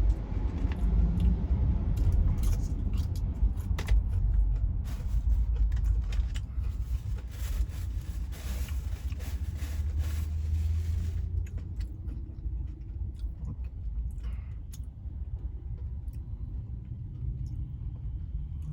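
Low, steady rumble of a semi truck's idling engine heard inside the cab, with rustling and clicking handling noises for roughly the first half that then die away.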